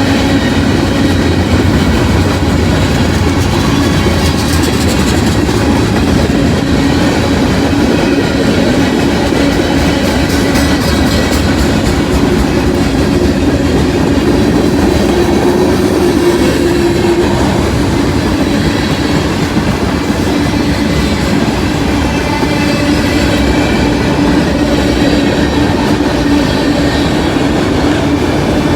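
Freight train rolling past, steel wheels on rail, loud and steady, with a steady hum running through the noise.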